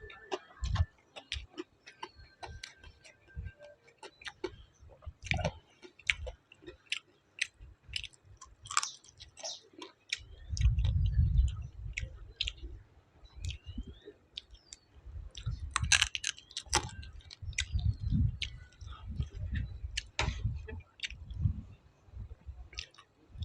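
A person eating close to the microphone: irregular chewing with many sharp clicks and crunches, and low thuds of the jaw working, over fried chicken and papaya salad.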